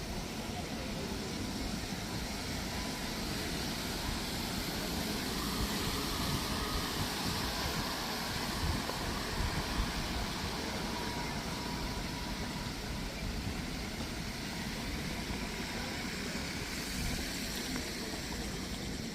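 Traffic on a wet city street: a steady hiss of tyres and engines that swells as a vehicle passes near the middle, then settles back.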